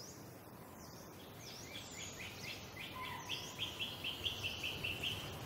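Birds calling over a faint, steady background of forest ambience. From about one and a half seconds in, one bird repeats a short falling note, about three or four a second, getting louder. Another bird gives a few scattered higher calls.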